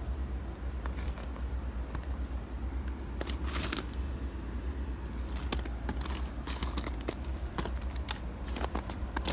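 Footsteps crunching on snow with a crust of ice on top: irregular sharp crunches as the icy crust breaks underfoot, over a steady low rumble.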